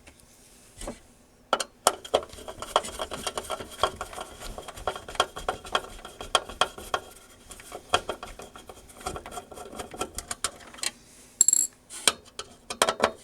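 Small metal tools and parts clicking and clinking in quick, irregular taps as an electronic device is handled, with a brief louder rattle near the end.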